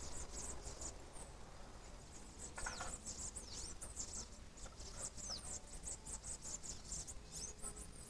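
Small songbird giving rapid, high, thin squeaky notes, many of them sliding down in pitch, with one longer falling whistle about three seconds in, over a low steady rumble.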